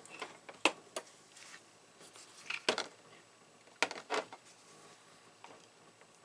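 A few sharp metal clicks and taps of small hand tools being handled and set down on a workbench, with louder clinks about two-thirds of a second in, near three seconds and around four seconds.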